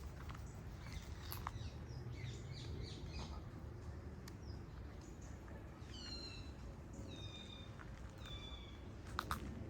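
Birds calling in a park: scattered high chirps, then three repeated calls about a second apart that bend downward in pitch, over a steady low rumble. A couple of sharp clicks near the end.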